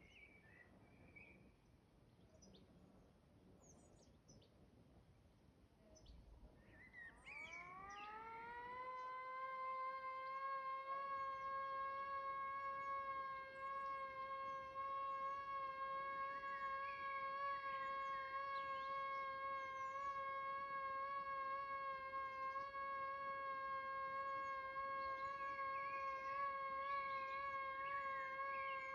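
A loud pitched tone winds up in pitch about seven seconds in, then holds one steady note, with birds chirping over it.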